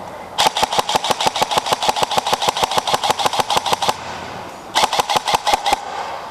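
Airsoft electric rifle (AEG) firing on full auto, about nine shots a second: a long burst of roughly three and a half seconds, then a short burst of about a second.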